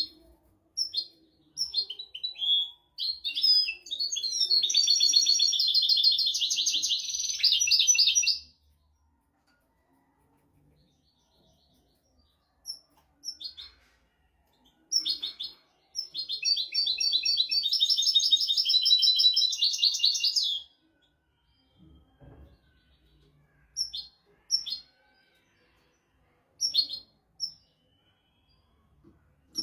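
European goldfinch singing: short clipped call notes, then a long rapid twittering trill of about four seconds. After a pause of several seconds comes a second trill just as long, followed by more scattered call notes.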